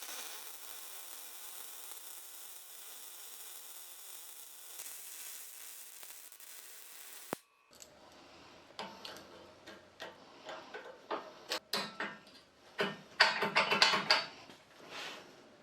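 Steady hissing for about seven seconds that stops abruptly, followed by scattered metallic clicks and knocks.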